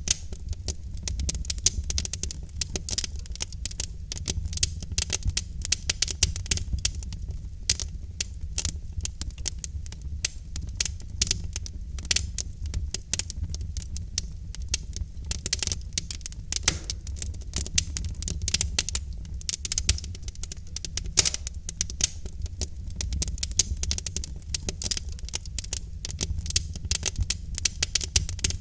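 Wood fire in a fireplace crackling: logs burning with dense, irregular pops and snaps over a steady low rumble of the flames.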